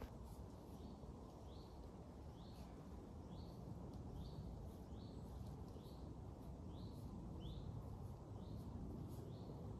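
A small bird calling, repeating one short upward-sliding chirp roughly once a second, over faint, steady low woodland background noise.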